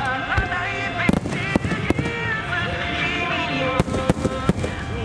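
Aerial firework shells bursting overhead, about eight sharp bangs at uneven intervals, over music played for the show.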